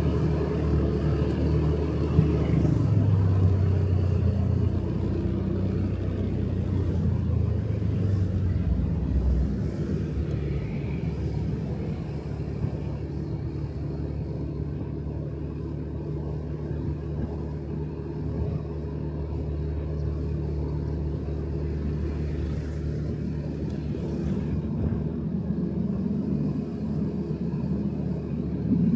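Motorcycle engine running under way with road and wind noise, heaviest in the first ten seconds or so, easing off through the middle and rising again near the end.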